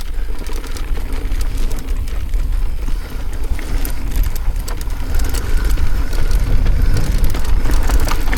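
Mountain e-bike riding over a rough trail: wind rumble on the microphone, tyres on loose ground and the bike rattling with many small clicks and knocks, growing louder over the last few seconds.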